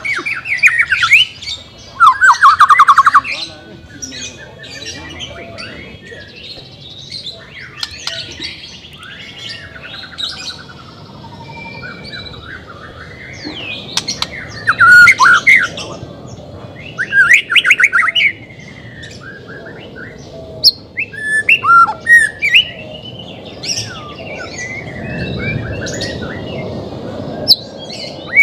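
White-rumped shama singing: loud, varied phrases of whistles, fast trills and chattering calls, repeated in bursts with short gaps between them.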